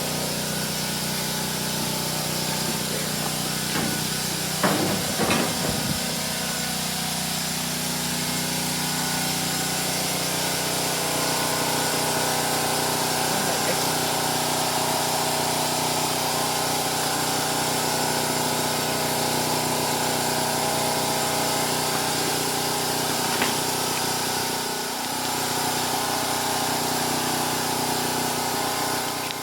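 A small engine running steadily with an even hum, with a few short knocks about five seconds in; it cuts off suddenly at the end.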